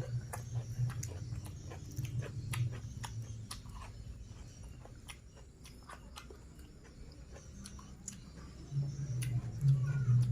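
Close-miked chewing and eating mouth sounds, with many small wet clicks, louder near the end.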